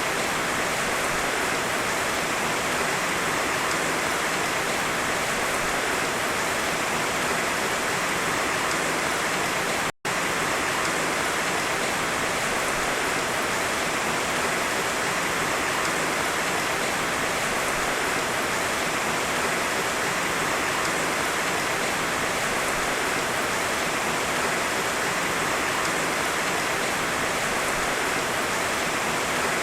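Heavy rain falling steadily, an even hiss with no thunder. It cuts out for a split second about a third of the way through.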